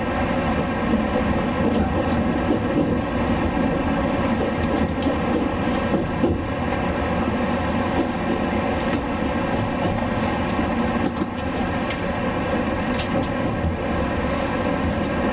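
Running noise heard inside a passenger car of the Inaho limited express electric train: a steady rumble with several steady humming tones over it and occasional faint clicks.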